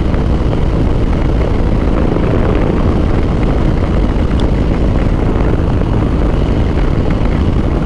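Harley-Davidson V-twin motorcycle engine running steadily at cruising speed, mixed with wind rushing over the rider's microphone.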